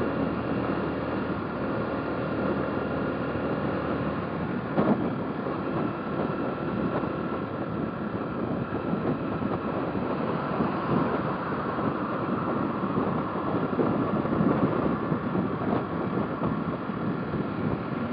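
Motorcycle engine running on the move, with wind noise on the microphone. A brief knock about five seconds in.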